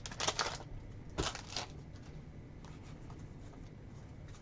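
Sports trading cards and packs being handled: a few short rustling strokes in the first couple of seconds, then only faint light clicks as the cards are flipped.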